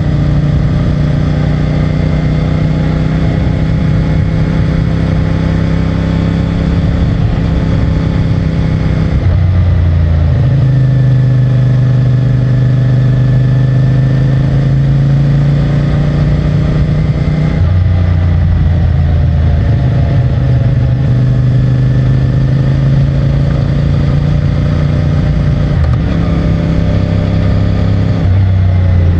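CFMOTO 450MT's parallel-twin engine running under way on its stock exhaust. The engine note bends up and down and changes abruptly twice, about ten and about eighteen seconds in.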